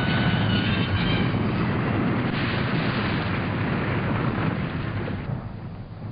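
A train running past in a loud, steady rumble, with faint high steady tones dying away in the first second or so; the rumble fades away near the end.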